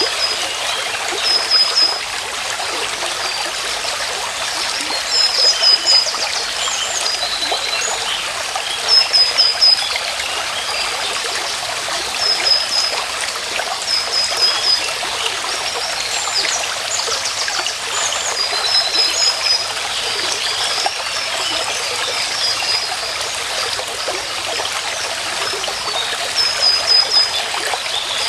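A small stream trickling and running steadily. A bird repeats a short phrase of a few quick, high notes every few seconds over the water.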